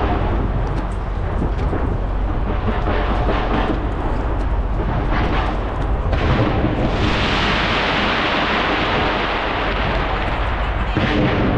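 Fireworks going off from the sides of a skyscraper: a continuous barrage of rapid bangs over a steady low rumble, growing denser and higher-pitched for a few seconds past the middle.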